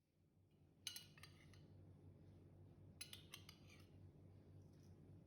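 Faint clinking of kitchenware, two short clusters of metallic clinks about two seconds apart, over a low steady hum.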